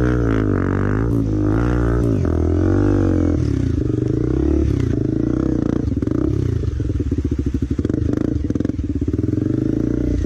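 Enduro motorcycle engine under way, its pitch rising and falling with the throttle for the first few seconds, then running steadier and lower.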